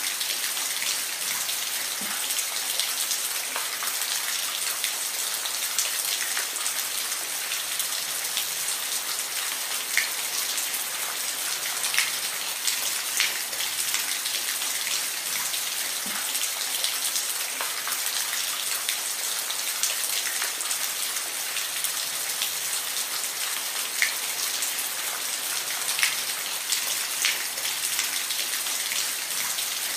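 Steady rain falling, with individual drops ticking sharply on a hard surface through an even hiss.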